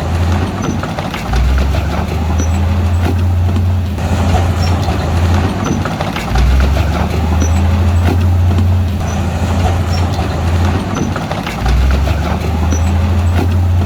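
Crawler bulldozer's diesel engine working hard, with clattering running through it. About every five seconds the engine note drops deeper and louder for several seconds, then eases back.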